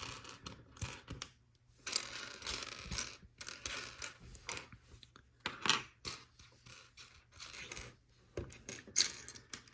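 Small plastic Lego pieces clattering and clicking as they are pushed around and searched through by hand, an irregular run of small clicks with two sharper ones, near six and nine seconds in.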